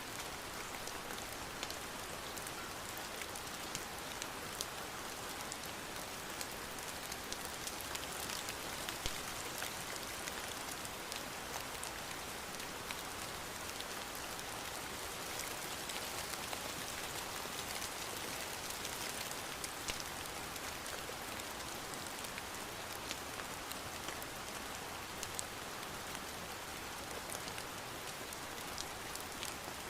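Steady rain falling on a surface, a constant even hiss dotted with many scattered sharp ticks.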